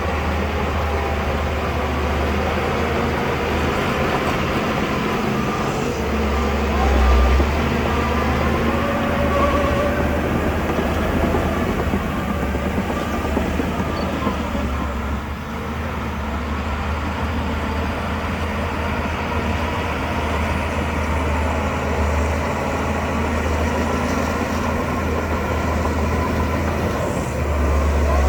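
Shantui DH17 bulldozer's diesel engine running steadily under load, with a deep low rumble and a brief louder swell about seven seconds in.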